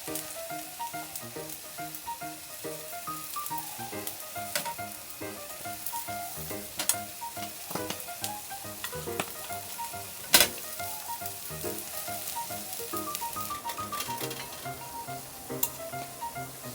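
Food sizzling and crackling in a hot pan, with a few sharp clicks from utensils on the pan, the loudest about ten seconds in. Soft background music with a simple melody plays throughout.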